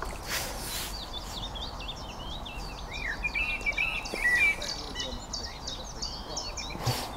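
Songbirds singing: a busy run of chirps and warbling phrases, thickest about three to four and a half seconds in.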